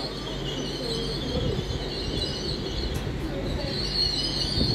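Great Western Railway Intercity Express Train running through the station on its diesel engines, with a steady rumble of wheels on the rails and an engine hum underneath. A high wheel squeal is heard near the start, fades, and comes back louder near the end.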